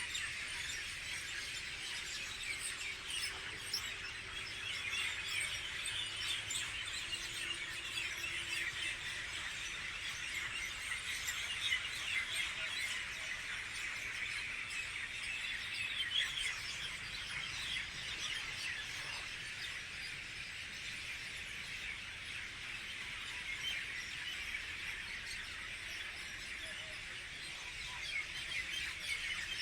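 A large flock of thousands of birds chirping and chattering together in one dense, unbroken chorus of overlapping high calls, steady throughout.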